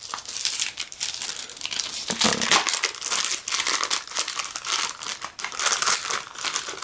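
Packaging being handled while a box is unpacked: paper and wrapping crinkling and crackling continuously, in irregular bursts.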